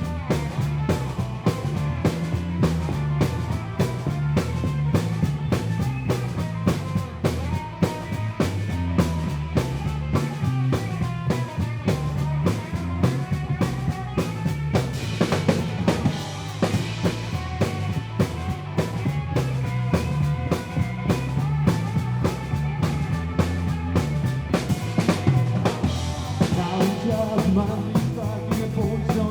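Live band playing an instrumental passage: a drum kit keeps a steady, driving beat with bass drum and snare under a bass line and melodic instrument lines.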